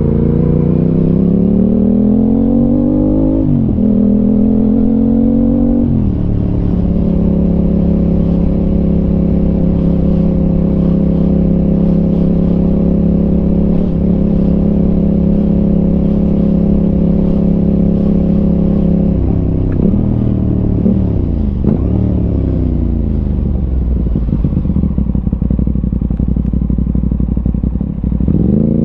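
Aprilia RS 660 parallel-twin with an SC Project exhaust, heard from the rider's backpack. It pulls up through the revs, shifts up about three and a half seconds in and pulls again, then holds steady revs for about twelve seconds. Around twenty seconds in the revs dip and jump a couple of times, then fall steadily as the bike slows, picking up again at the very end.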